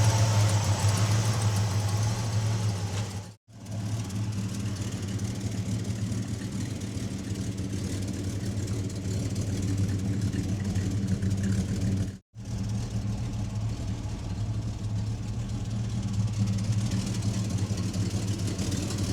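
1968 Oldsmobile 442's 400 cubic inch V8, breathing through a four-barrel carburetor and true dual exhaust, idling with a steady, deep exhaust note. The sound cuts out briefly twice.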